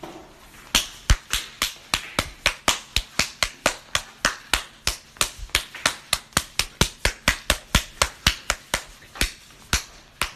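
A fast, even series of sharp smacks, about four a second, keeping up for roughly nine seconds as punches are thrown.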